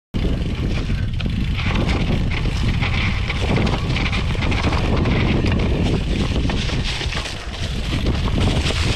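Wind buffeting the microphone over the rattle and tyre noise of a cyclocross bike riding a rough gravel trail, steady and loud with constant small jolts.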